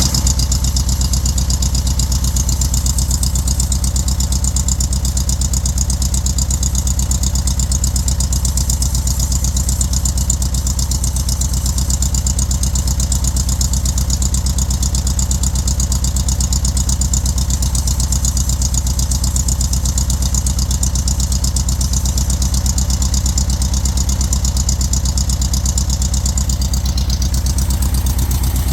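Volkswagen 1600 dual-port air-cooled flat-four engine with a 39 mm carburettor, idling steadily at an even speed.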